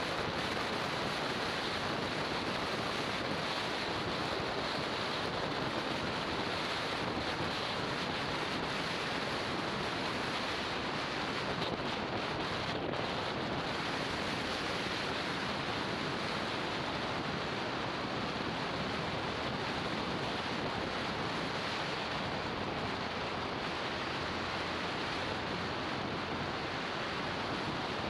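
Steady rush of wind over the microphone of a Garmin VIRB 360 action camera on a moving motorbike, an even noise with no distinct engine note standing out.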